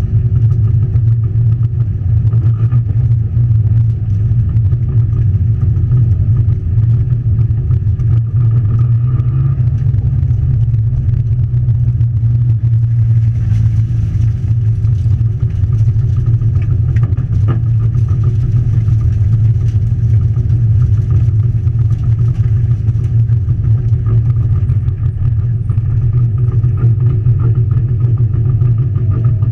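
Rally car's engine idling steadily at a constant low pitch, heard from inside the stripped, roll-caged cabin.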